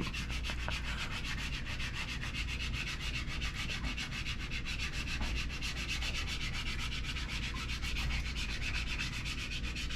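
Steady rubbing, scraping noise with a quick, even pulse.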